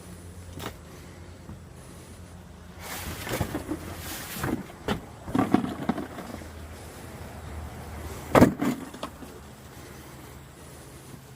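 Junk being handled and moved: irregular knocks, clatters and scrapes, with the loudest bang about eight seconds in, over a steady low hum.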